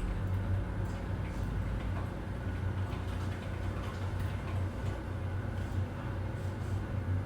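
Office background ambience: a steady low hum with a faint haze of room noise, and scattered light clicks and ticks throughout.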